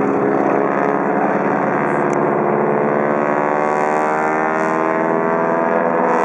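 T-6 Texan aerobatic planes' nine-cylinder radial engines and propellers running overhead, a steady loud drone whose pitch slowly shifts as the planes move.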